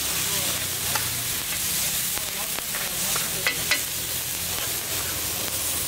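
Meat and onion masala sizzling on a large flat iron griddle while a spatula stirs and scrapes it, with two sharp taps of the spatula on the griddle about three and a half seconds in.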